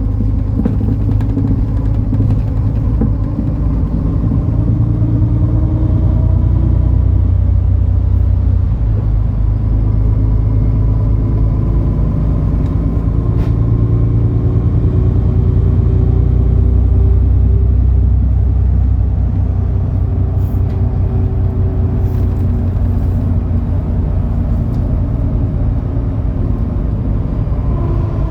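MAN Lion's City NL293 city bus's six-cylinder diesel engine running under way with a steady low rumble, its note rising and falling gently as the bus speeds up and eases off.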